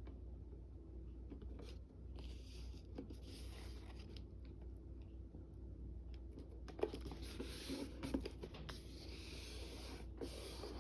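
Faint rustling and scraping of paper being handled, with a few soft taps in the second half, over a steady low hum.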